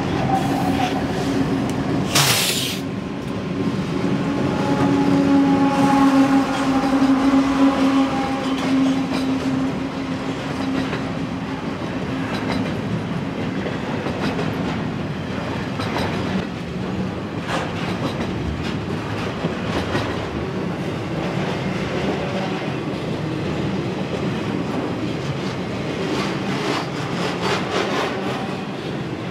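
BNSF diesel locomotives passing as they drift downgrade, with a steady engine hum that fades by about ten seconds in. After that, a long string of spine cars loaded with trailers and containers rolls by, its wheels clicking over the rail joints. There is a short, sharp burst of noise about two seconds in.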